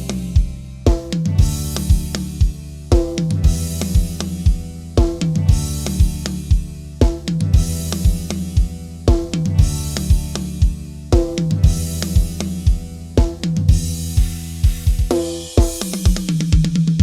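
Thai phleng phuea chiwit (songs-for-life) folk-rock band music with no singing: a steady drum-kit beat with bass drum and snare, bass and sustained instrument tones, and a cymbal crash about every two seconds.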